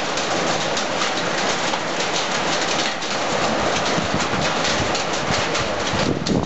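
Heavy rain mixed with small hail, a dense steady pattering of countless fine impacts on surfaces. Wind gusts buffet the microphone near the end.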